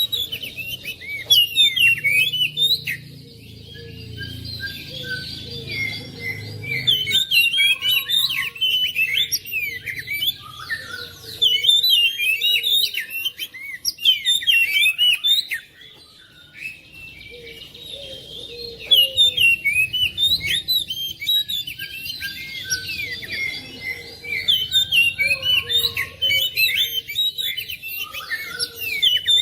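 Oriental magpie-robin (kacer) song: a dense, varied stream of quick whistles and chirps, swelling into louder bursts every few seconds.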